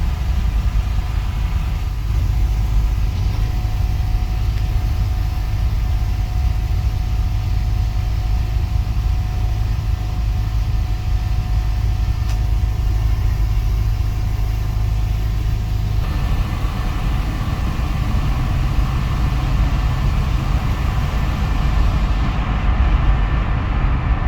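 Steady low rumble of engine and road noise inside a box truck's cab while driving, with a fuller, hissier road sound coming in about two-thirds of the way through.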